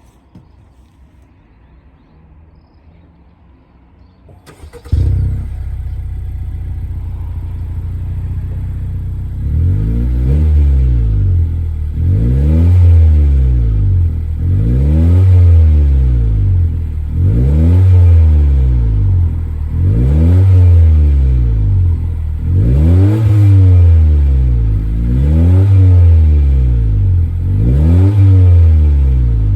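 Honda CR-V RW1's 1.5-litre turbo four-cylinder through a Kakimoto Class KR aftermarket exhaust: the engine starts about five seconds in and idles, then from about ten seconds on it is revved again and again, each rev rising and falling, roughly every two and a half seconds.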